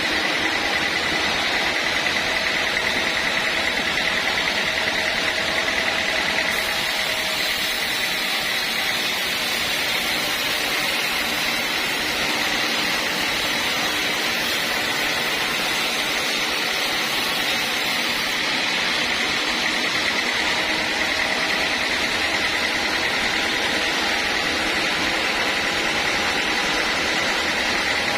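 Sawmill bandsaw machinery running steadily while sawing teak, a constant machine noise with a high steady whine.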